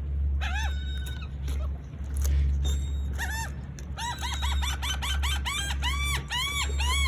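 Gulls calling excitedly: a few scattered cries at first, then from about four seconds in a rapid run of short, arching calls, several a second. A steady low hum sits underneath.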